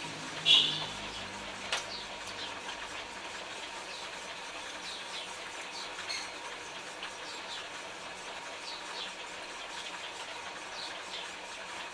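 Small birds chirping: short, high, falling chirps scattered every second or so, with one louder call about half a second in. A single sharp click comes just under two seconds in.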